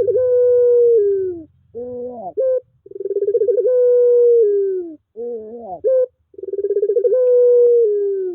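Puter pelung dove cooing over and over: each call a short, wavering, rising note followed by a long, drawn-out steady coo, repeated about three times.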